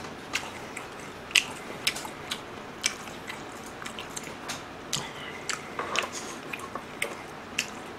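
Close-miked chewing of a mouthful of food, with wet mouth clicks and smacks at irregular intervals.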